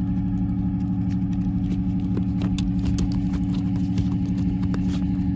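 Boat engine running steadily at low revs with an even drone, and a few faint clicks about two to three seconds in.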